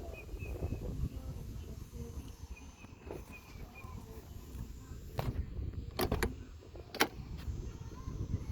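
Four sharp clicks over a low rumbling background, with faint bird chirps in the first few seconds.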